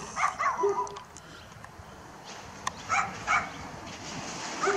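A dog barking a few short barks, spaced out over a few seconds.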